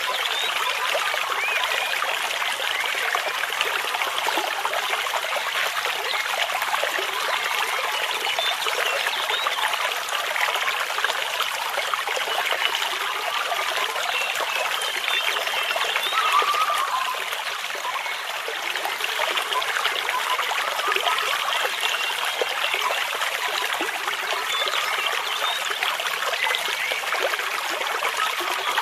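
A small stream trickling and gurgling over stones, a steady rush of running water.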